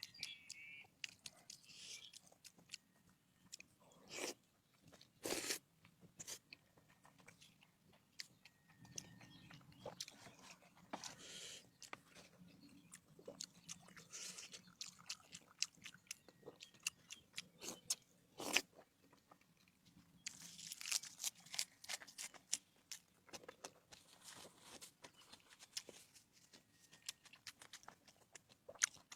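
Close-miked eating: crisp bites and crunchy chewing in irregular clusters, with a few sharper, louder crunches.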